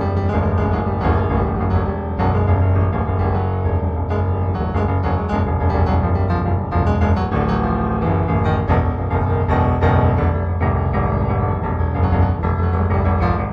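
Solo piano music playing, with many notes in quick succession.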